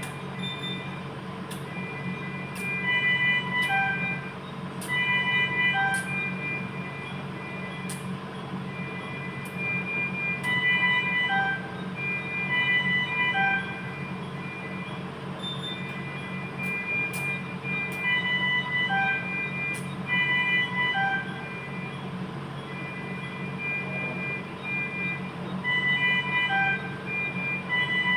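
A high-pitched melody of short held notes, repeating throughout over a steady low hum, with a few sharp clicks.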